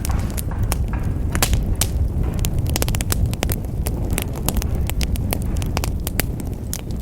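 Wood fire burning in a fireplace: dense, irregular crackles and sharp pops, several a second, over a low steady rumble of the flames.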